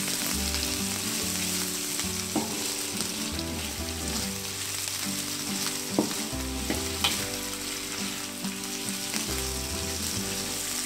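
Lap cheong sausage, shallots, garlic and chillies sizzling steadily as they are stir-fried in a wok over high heat. A spatula scrapes and stirs through it, with a few sharp knocks against the pan, the loudest about six seconds in.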